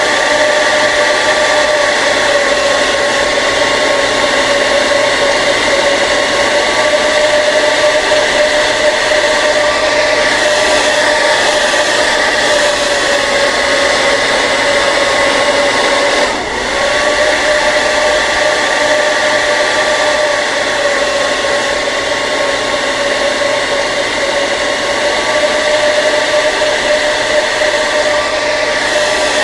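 Hair dryer running steadily, a constant blowing rush with a steady motor whine, with a brief dip about halfway through.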